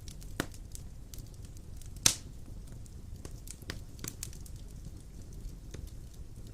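Wood fire of large logs crackling in a fireplace: irregular sharp pops over a steady low noise of the flames, the loudest pop about two seconds in.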